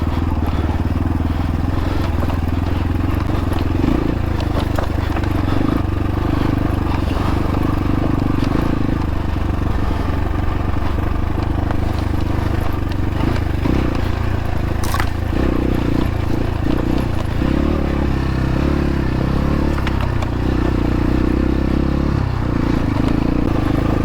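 X-Pro Templar X dirt bike engine running at low to moderate revs, its note shifting up and down every few seconds with the throttle, with small clicks and clatter from the ride over rough ground.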